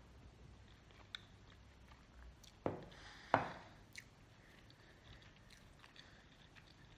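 Faint chewing with the mouth closed, in a quiet room, with a few small clicks. Two sharper knocks come about two-thirds of a second apart near the middle.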